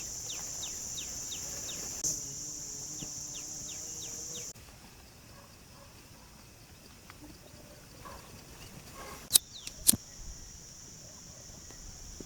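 Outdoor ambience: a steady high insect drone with a run of short falling chirps, cutting off abruptly about four and a half seconds in to a quieter background. Two sharp clicks come close together near the end.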